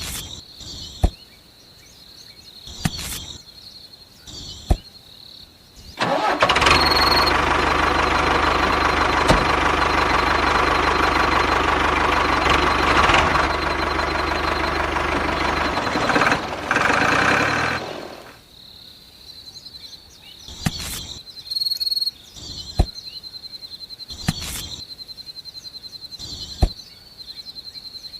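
A small motor starts suddenly about six seconds in, runs steadily for about ten seconds, then winds down and stops near eighteen seconds. Crickets chirp steadily throughout, with scattered sharp knocks.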